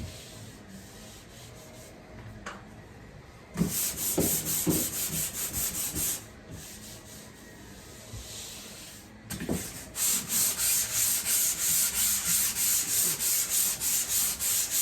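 Hand sanding on drywall, quick back-and-forth strokes about four a second. The strokes come in two runs: a short one a few seconds in and a longer one in the second half.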